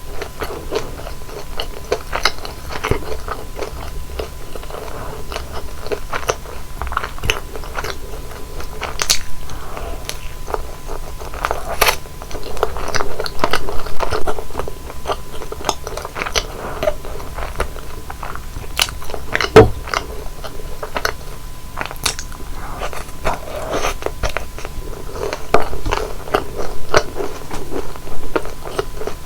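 Close-miked eating: biting into and chewing deep-fried flower-shaped steamed buns (kkotppang), with irregular crisp crunches and crackles from the fried crust and one louder crunch about two-thirds of the way through.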